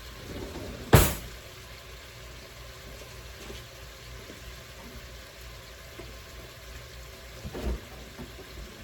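Meatballs frying in a pot give a steady, quiet sizzle. There is one sharp knock about a second in and a few softer knocks near the end.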